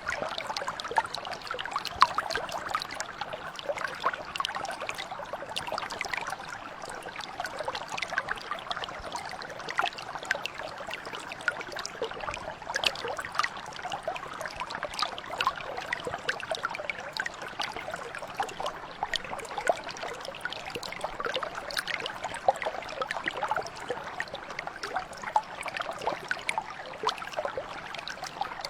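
Shallow stream or brook flowing steadily, with a constant babble of small splashes and trickles over stones.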